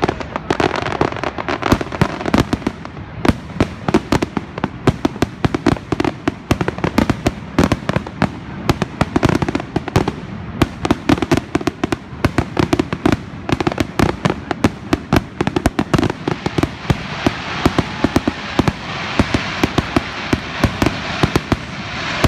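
Fireworks going off in rapid succession: many sharp bangs a second over a continuous crackle, with no break.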